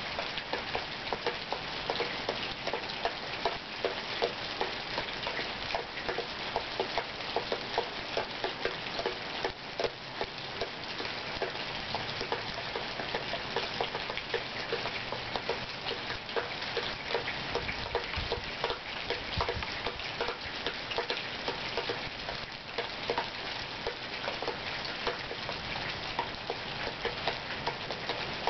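Steady rain from a passing thunderstorm, with dense drops ticking and splashing on hard surfaces close by.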